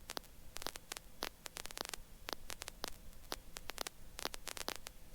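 Faint crackling static with many irregular clicks over a low hiss, on a headset intercom line between transmissions.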